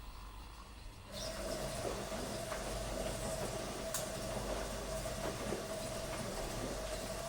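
A small household appliance's electric motor switches on about a second in and runs steadily, a constant hum with a steady pitched whine and faint irregular clicks.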